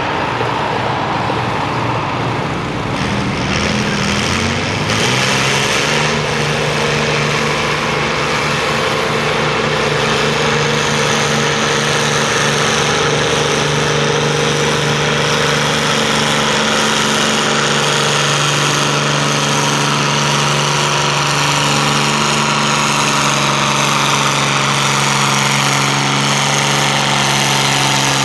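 Oliver 1655 tractor's diesel engine pulling hard under load: it revs up over a couple of seconds near the start, then holds at high revs with only slight rises and dips.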